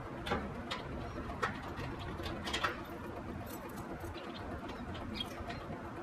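Birds calling, with several sharp light clicks and knocks over a steady low background.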